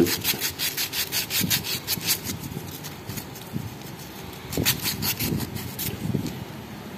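A Honda CD80 camshaft lobe being rubbed by hand with 220-grit sandpaper: rhythmic back-and-forth scratching strokes, quick at first, then thinning out, with a few more strokes later. The sanding smooths a worn, pitted spot on the cam lobe that the mechanic blames for a rattling noise from the engine head.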